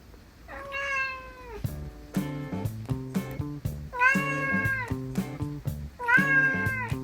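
A Scottish Fold cat meowing three times, each meow about a second long and dropping in pitch at the end. Light background music with a steady beat comes in about two seconds in.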